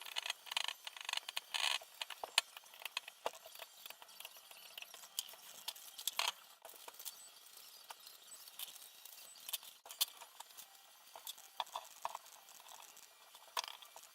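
Irregular small clicks, taps and light scrapes of small parts and tools being handled during quadcopter assembly.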